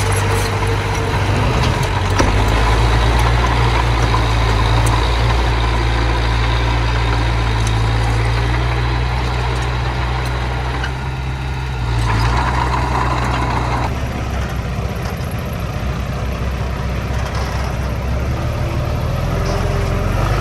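Diesel engine of small earthmoving machinery running under varying load: a steady low drone that shifts in pitch a few times, with a brief higher whine about twelve seconds in.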